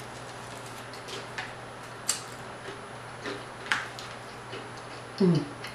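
Close-up eating sounds of crispy fried croaker being chewed: soft mouth noises with a few sharp crunching clicks, the loudest about two seconds and nearly four seconds in. A short hummed 'mm' with a falling pitch a little after five seconds.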